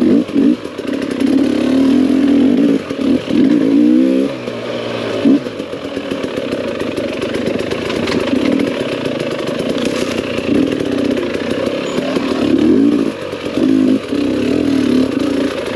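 GasGas two-stroke enduro dirt bike engine being ridden hard on a trail, the throttle opened and closed again and again so the revs climb in short runs and fall back.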